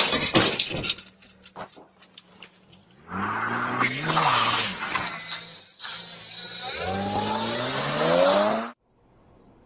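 Car collision: a sharp impact right at the start, followed by scattered clatter and ticking of debris for a couple of seconds. Then a car engine accelerates, its pitch rising, dropping back and rising again several times as it shifts up, until it cuts off suddenly near the end.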